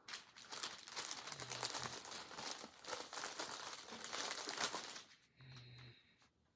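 Crinkly packaging rustling and crackling as yarn skeins are handled. It is loud and continuous for about five seconds, then drops to softer rustling.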